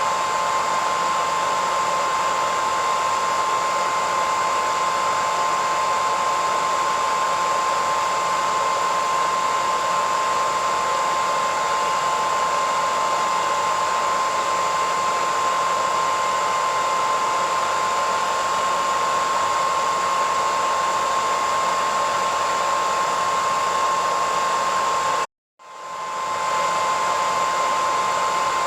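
Hair dryer running steadily: a rush of blown air with a steady high whine from the motor. Near the end it cuts out abruptly for a split second and fades back in.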